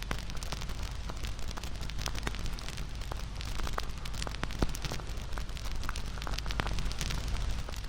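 Wood fire burning with a steady low rumble and frequent crackles and sharp pops; one loud pop comes about halfway through.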